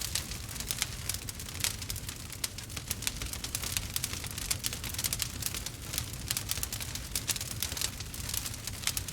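Wood fire crackling and popping, with many quick irregular pops over a low steady rumble.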